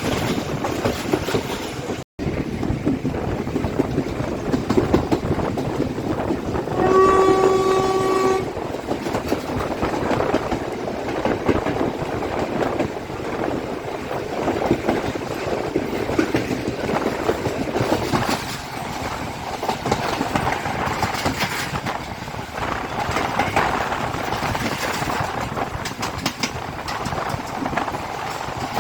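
Class M6 diesel-hauled express train running at speed, a steady rumble of wheels on the rails with clickety-clack. About seven seconds in, the locomotive's horn sounds once for about a second and a half.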